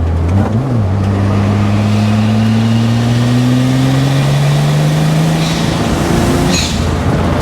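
BMW N54 twin-turbo inline-six pulling hard under full throttle in fourth gear. The revs climb smoothly and steadily, with no misfire after its injectors were cleaned, then drop off with a short hiss about six and a half seconds in.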